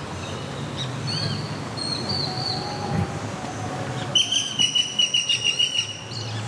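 Birds calling over a steady low background hum: a few thin whistles and chirps, then about four seconds in, one bird gives a loud, rapid series of buzzy notes for about two seconds.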